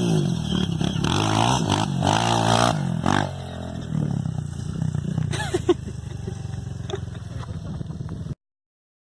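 Motocross bike engine revving, its pitch rising and falling as the throttle opens and closes. It is loud for about three seconds, then quieter, and the sound cuts off abruptly near the end.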